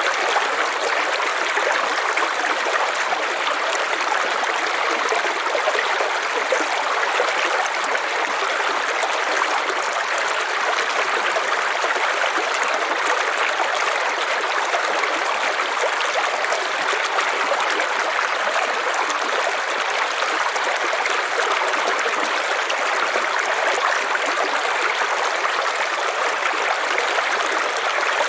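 River water flowing over stones with a steady rushing and splashing, even and unbroken.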